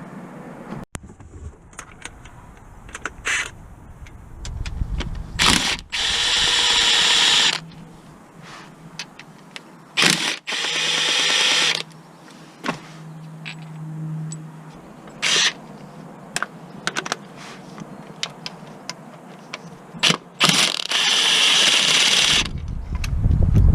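Power tool run in three bursts of about a second and a half each, with clicks and knocks of hand tools between them, while a car's clutch is being worked on.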